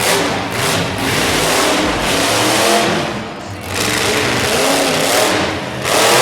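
Monster truck engine revving hard, its pitch rising and falling; it eases off about halfway through, then builds again.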